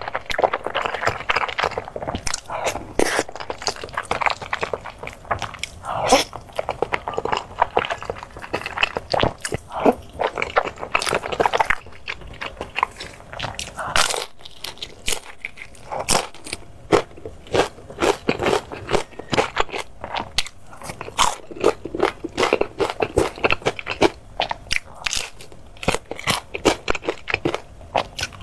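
Close-miked eating: biting and chewing crunchy food, with many sharp crunches and wet mouth sounds, over and over throughout.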